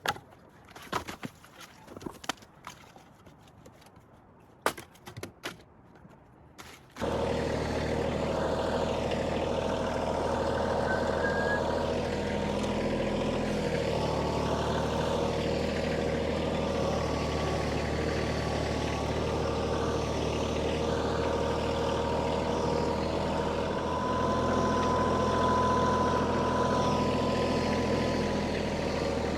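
A few scattered knocks, then, about seven seconds in, a tractor engine starts being heard abruptly and runs steadily at an even pitch.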